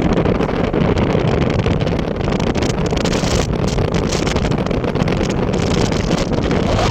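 Loud, steady wind buffeting the microphone of a moving vehicle, with the vehicle's road noise underneath.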